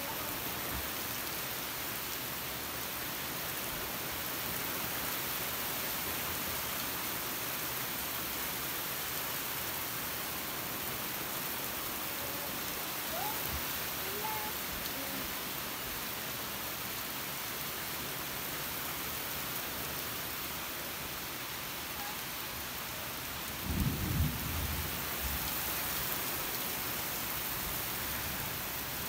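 Heavy rain pouring steadily on the lawn and house roofs, with one short low rumble of thunder about three-quarters of the way through.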